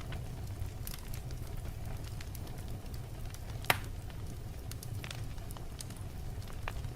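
Wood fire burning in a fireplace: a steady low rumble of flames with scattered light crackles, and one sharp, loud pop about halfway through.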